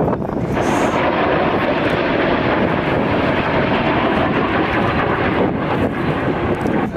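Fixed-wing aircraft engine noise, loud and steady, cutting off suddenly near the end.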